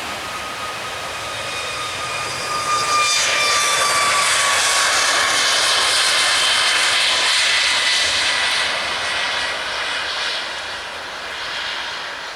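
Jet airliner passing close by, its engines a loud rushing whine whose tones glide downward in pitch as it goes past, loudest for several seconds in the middle.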